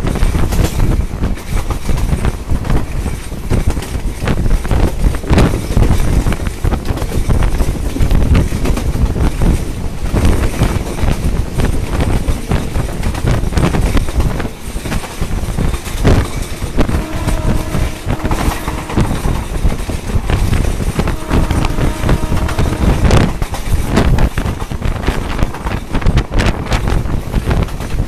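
Commuter train running along the track, heard from a phone held outside the carriage window. Wind buffets the microphone over a steady low rumble, with a few sharp knocks.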